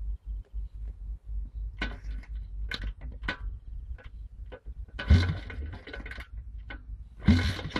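Land-speed motorcycle's engine being started, firing in several short bursts that die away without settling into running, the loudest about five seconds in. Wind rumbles on the microphone throughout.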